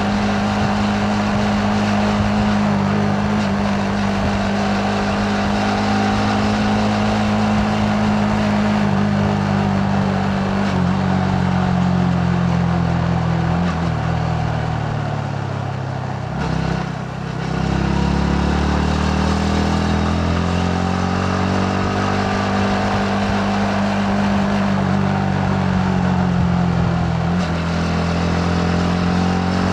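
Yamaha MT-15's single-cylinder four-stroke engine running steadily under way, with wind and road noise. About sixteen seconds in, the engine note falls and briefly drops in level as the bike slows, then rises again as it accelerates.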